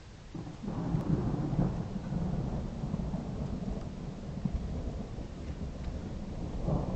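Thunder rumbling: a long low rumble that builds about half a second in and swells again near the end.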